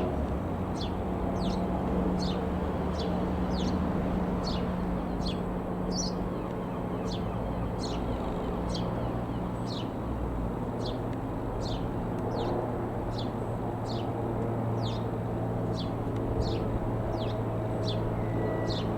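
A bird calling over and over, a short falling chirp about once every two-thirds of a second, over a steady low engine drone that drops in pitch about halfway through.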